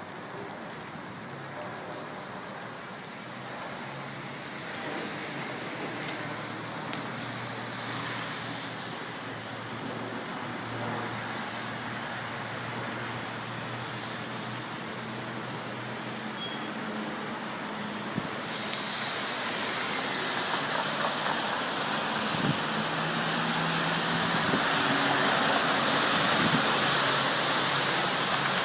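Steady rain hiss that swells louder about two-thirds of the way in, with a low hum underneath.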